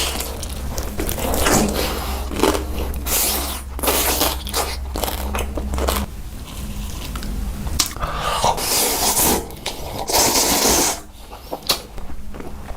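Close-miked eating: loud crunching bites and wet chewing at irregular intervals, with a quieter pause near the end.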